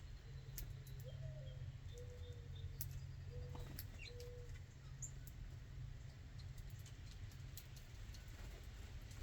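A mourning dove cooing faintly: one note that rises and falls, then three short steady lower notes. Scattered small clicks and a steady low rumble run underneath.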